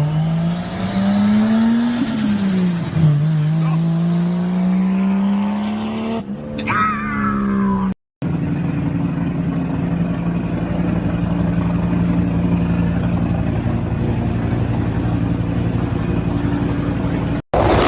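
Performance car engines with loud exhausts, in separate clips: first an engine revving up and down, its pitch rising and falling, then after a sudden cut an engine holding a steady drone for about nine seconds.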